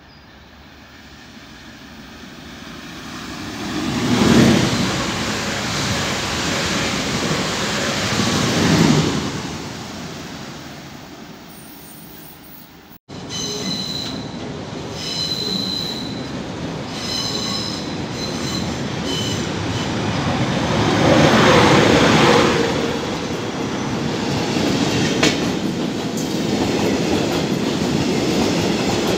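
An electric train approaching and rolling through a station, loudest about four and nine seconds in. Then class 111 electric locomotive 111 111-1 hauling passenger coaches comes in over the points, its wheels squealing in high, broken tones for several seconds before the coaches roll past close by.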